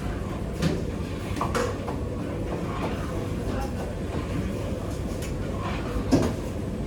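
Steady low machine rumble of a working kitchen, with a few sharp knocks and clicks of utensils and cookware, the loudest about six seconds in.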